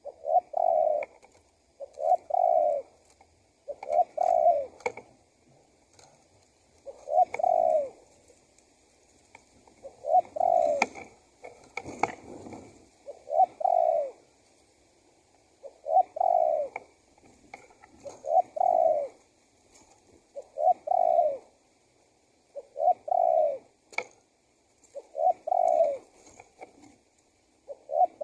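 Male spotted dove (tekukur) cooing repeatedly: about a dozen low phrases of two or three notes each, one every two seconds or so.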